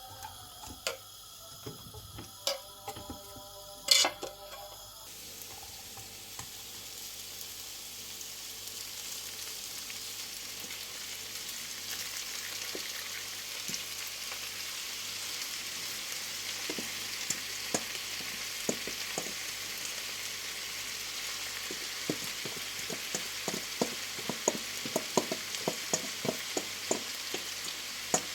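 Food frying in oil in a pan: a steady sizzle sets in about five seconds in and grows, with pops and clicks coming more often toward the end. Before it, a few clicks and one sharp knock about four seconds in.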